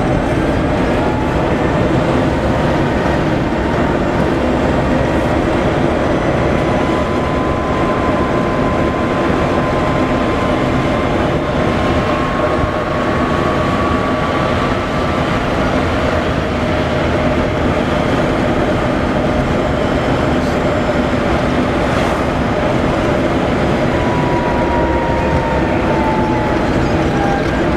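Renault Twizy electric car driving, its motor whining faintly over loud, steady road and wind noise. The whine drifts slowly up in pitch through the middle and falls away near the end.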